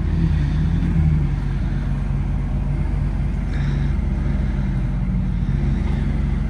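McLaren supercar's twin-turbo V8 idling steadily, a little stronger in the first second.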